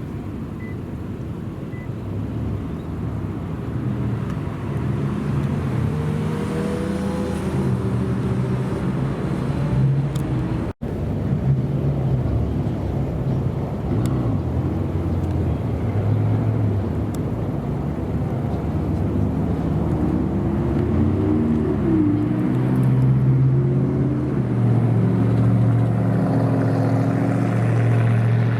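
Supercar engines, Lamborghinis among them, running at low revs and moving off, with deep steady engine notes; about two-thirds of the way through, the engines rise in pitch as they are revved. The sound breaks off for an instant a little over ten seconds in.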